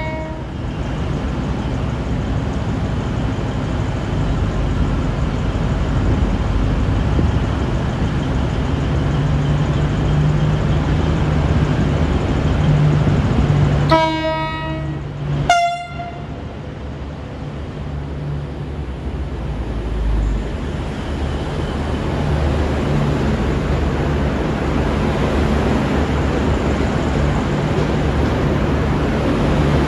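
V/Line VLocity diesel railcar running with a steady low engine rumble as it departs. Its horn sounds briefly at the start, then gives two short blasts of different pitch about a second and a half apart midway through.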